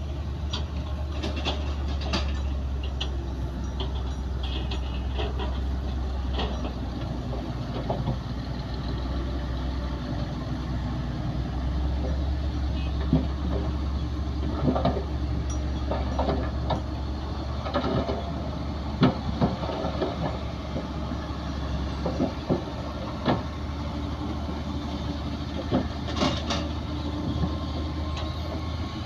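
Heavy diesel earthmoving machinery running steadily, with irregular metallic clanks and knocks through the middle and later part.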